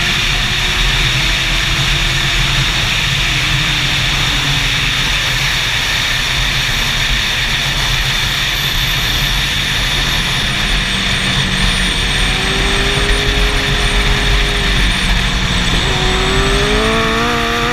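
Racing motorcycle engine running hard on a race track under a steady rush of noise. Its pitch falls in steps early on and climbs steeply near the end as it accelerates again.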